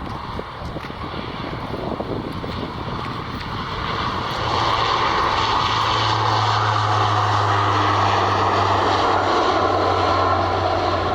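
Airplane engines growing louder about four seconds in, then holding steady, with a low hum and a broad rushing band above it.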